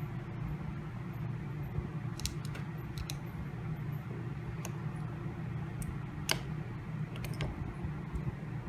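Small sharp clicks and taps of a phone's parts and repair tools being handled as a new battery is fitted into a Redmi 4A, about nine scattered through, the loudest a little past the middle, over a steady low hum.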